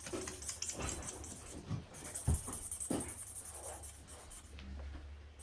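Gold felt-tip marker squeaking and scratching against coloring-book paper in quick back-and-forth colouring strokes, high-pitched and rough on the ears. It is strongest in the first couple of seconds, then fainter, and dies away near the end.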